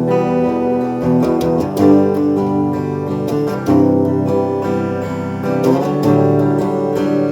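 Acoustic guitar strumming chords, an instrumental intro with no voice.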